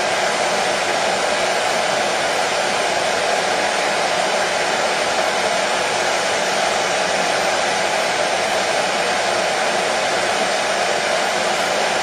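Hair dryer running steadily, an even rushing hiss of fan and blown air with no change in pitch or level.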